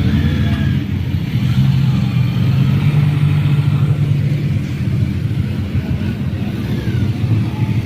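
Motorcycle engine running, its low note rising slightly and holding through the middle before easing back.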